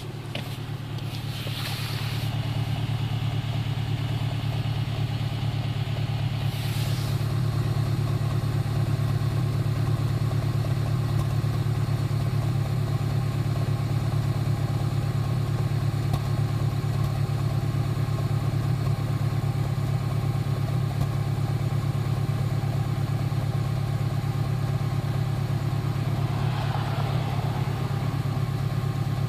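2008 Honda Civic Si's 2.0-litre four-cylinder engine idling cold, getting louder over the first few seconds and then running steadily, with a popping in the idle whose cause the owner is trying to find.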